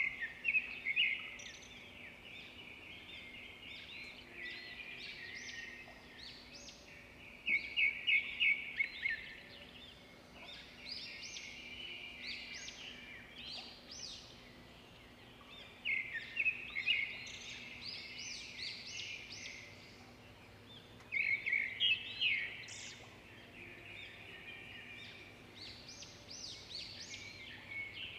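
Birds singing: loud bursts of rapid trilled chirps every five to eight seconds, with softer chirping in between, over a faint steady low hum.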